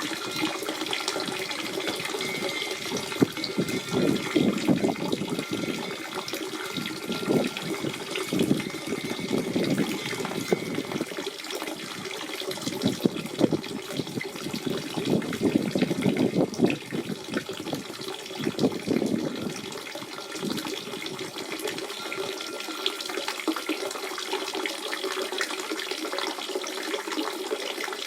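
Natural spring water running and splashing in uneven surges. The flow eases a little in the last few seconds.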